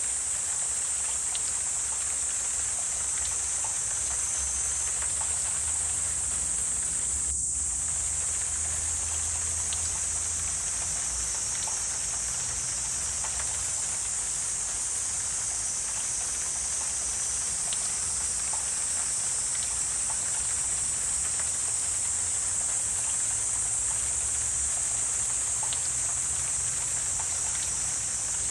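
Wetland nature ambience: a steady high-pitched insect chorus, with a faint low rumble underneath and scattered faint ticks.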